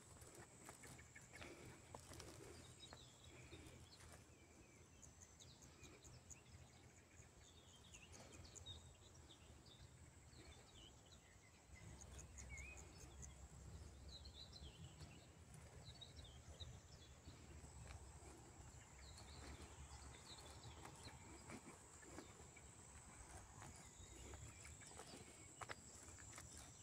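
Near silence with faint, scattered bird chirps; a low rumble comes in about halfway through.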